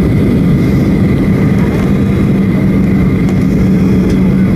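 Steady in-cabin noise of a Boeing 737-800 in flight on approach: the even rush of its CFM56 engines and the airflow, with a constant low hum.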